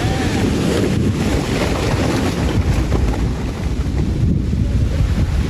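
Strong wind buffeting the microphone: a loud, steady low rumble with a rushing hiss over it, which may include waves or water.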